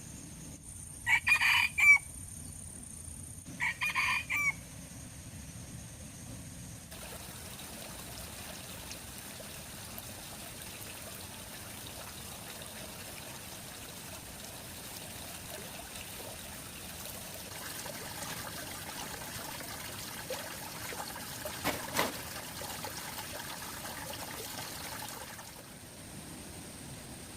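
A rooster crowing twice, two short calls about three seconds apart, followed by a steady trickle of running water.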